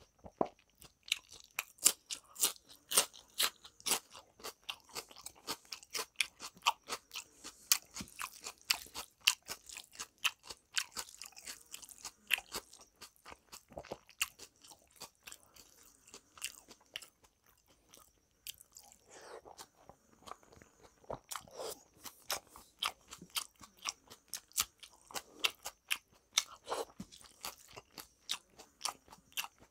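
Close-miked chewing of raw cucumber slices: a dense run of crisp, wet crunches, thinning out about halfway through before picking up again.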